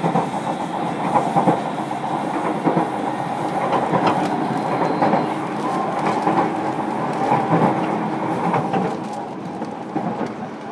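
Running sound inside a motor car of a JR Kyushu 305 series electric train: steady wheel-on-rail noise with the clicks of the wheels over rail joints. It gets a little quieter near the end.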